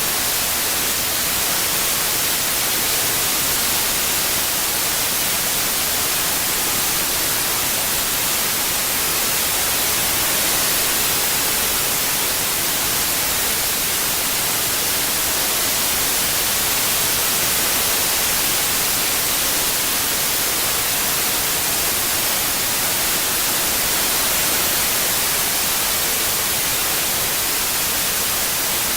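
Steady synthesized white noise: an even, unbroken hiss, brightest in the high frequencies, used as a masking sound for tinnitus relief.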